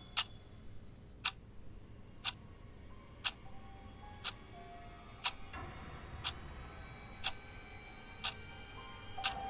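A clock ticking steadily about once a second, over a faint sustained music drone whose notes shift now and then.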